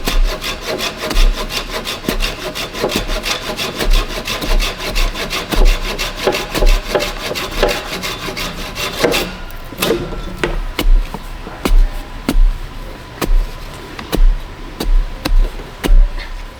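A hand saw cutting through wood, most likely a bamboo pole, in quick back-and-forth strokes. After about nine seconds the sawing gives way to sparser, sharp knocks.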